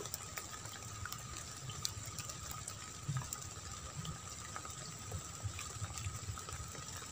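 Rain falling on a flooded rice paddy and wet mud: a faint patter of scattered drops ticking at random, under a steady faint high-pitched tone.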